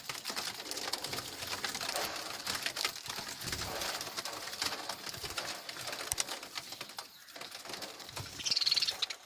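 A flock of budgerigars chattering, many short high chirps overlapping continuously, with a louder chirping call near the end.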